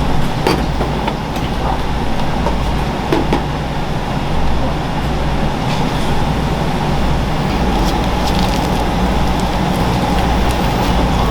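Steady mechanical hum and rushing noise, with a few light clicks and clinks scattered through it.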